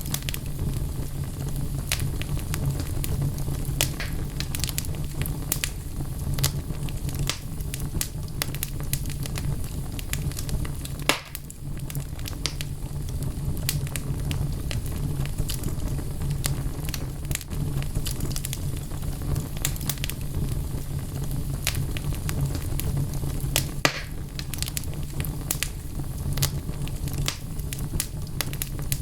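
Wood fire burning in a fireplace: a steady low rumble of flame under frequent sharp crackles and pops from the burning logs, with one louder pop about eleven seconds in.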